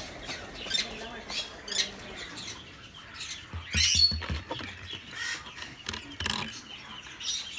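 African grey parrot squawking harshly in short bursts from its nest box while the box is checked, loudest about four seconds in.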